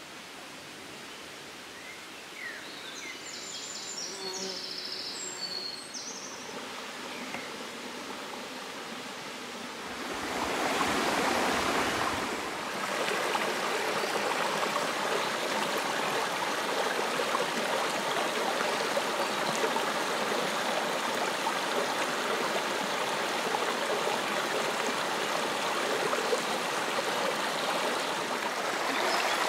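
Rushing river water, a steady hiss that swells louder about ten seconds in and then holds level.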